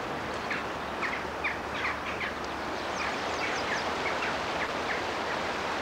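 Small birds chirping again and again over a steady rushing outdoor noise.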